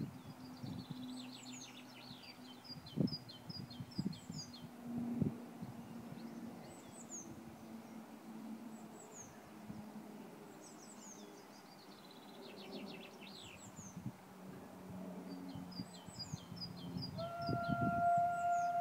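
A small songbird sings the same trilled phrase again and again, every five or six seconds, over a low steady hum, with a few dull knocks in the first seconds. Near the end a steam locomotive's whistle starts, one steady held tone.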